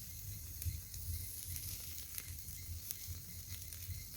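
Faint sizzling of a wood cooking fire, with scattered sharp crackles over a steady hiss.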